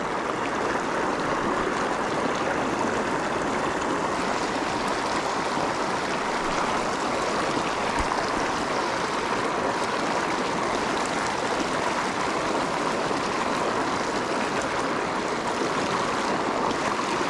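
Small mountain creek running, a steady, even rush of water.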